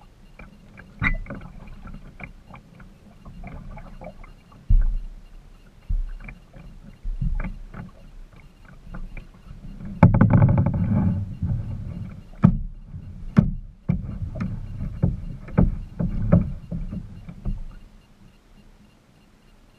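Kayak being paddled: irregular knocks and clunks of the paddle and hull, with a louder grinding scrape lasting about a second and a half near the middle. The sounds die away near the end.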